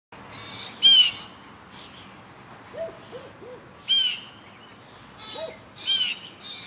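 A small bird caught by a dog giving repeated short, high-pitched distress squawks, loudest about a second in, at four seconds and near the end. A few low, short hoot-like sounds come around three seconds in.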